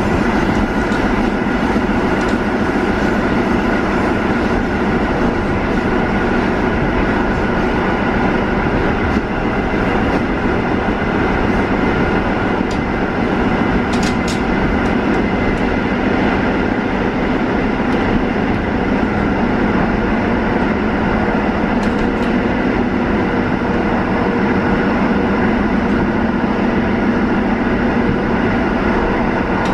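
Steady running noise inside the carriage of a Newag 14WE electric multiple unit travelling between stations: wheels rumbling on the track, with a steady hum through it. A couple of brief faint clicks come about halfway through and again later.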